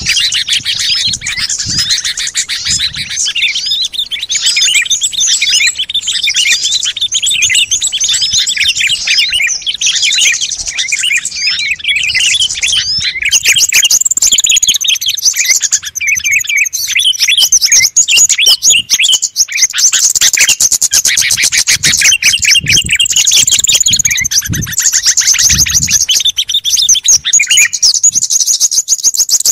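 Dense, unbroken chorus of many small songbirds chirping and twittering over one another, a pikat recording used to lure wild birds. About 13 seconds in the calls shift higher and grow busier.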